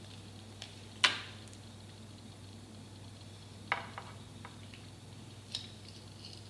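A few sharp clicks and taps from handling a Hot Tools curling iron during curling, the loudest about a second in, over a faint steady low hum.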